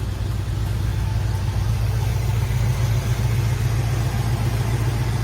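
A 1972 Chevrolet Nova SS's 350 V8 engine idling steadily, growing slightly louder about a second in.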